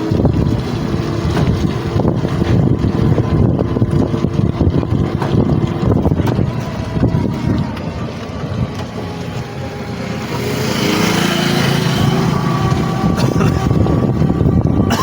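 Loud low rumble of wind buffeting the microphone, with faint steady engine-like tones under it. About ten seconds in, a hiss swells and a pitched tone rises briefly.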